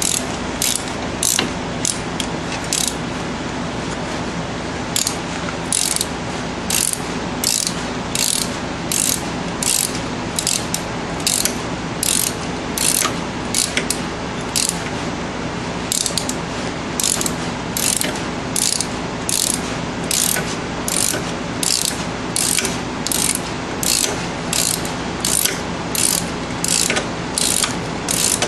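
Hand ratchet with a 7mm Allen socket clicking in a steady rhythm, about two strokes a second, as a brake caliper bolt is run in and tightened. It pauses briefly twice.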